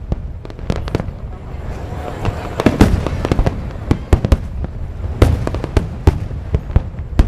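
Fireworks display: aerial shells bursting in an irregular series of sharp bangs, bunched close together at times, over a continuous low rumble.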